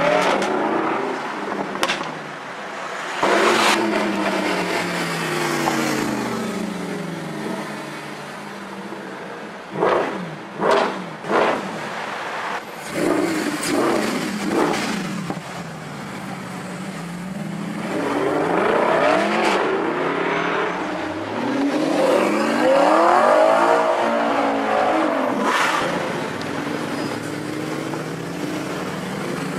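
High-performance supercar engines with Akrapovic exhausts revving and accelerating, the engine note rising and falling repeatedly. About ten seconds in there are several short, sharp rev blips.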